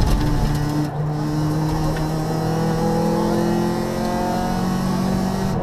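Rally car engine heard from inside the cabin, pulling hard: the revs drop about a second in, as at an upshift, then climb steadily through the gear until another brief drop near the end.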